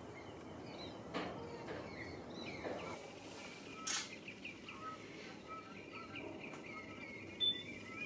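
Birds calling over a quiet wetland: short, repeated chirping notes, some falling in pitch, growing denser over the second half above a steady background hiss. A few brief sharp clicks stand out, the loudest near the end.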